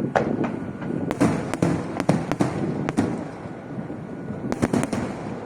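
Aerial fireworks going off: an irregular run of sharp bangs and cracks, bunched about a second in and again near the end, over a steady low rumble.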